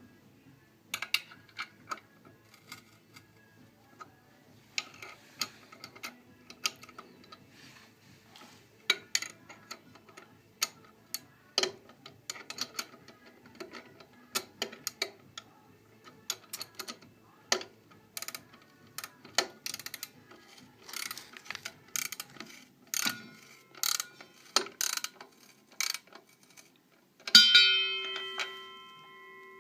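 Irregular metallic clicks and knocks, like tools or machine parts being handled and set. Near the end a metal piece is struck and rings on in several clear tones as it dies away.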